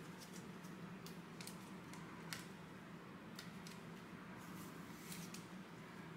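Faint handling of trading cards and packs: soft scattered clicks and light rustles over a steady low room hum.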